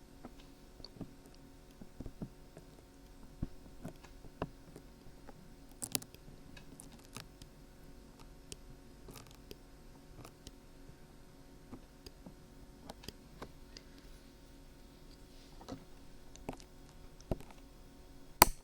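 Faint, scattered crackles and small clicks of dried glue being peeled off the ear of a binaural dummy-head microphone, with one sharp loud click near the end.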